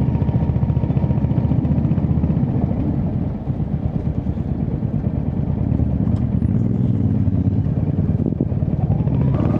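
Royal Enfield Hunter 350's single-cylinder engine running with a steady, rapid beat of firing pulses, easing slightly in level about three and a half seconds in.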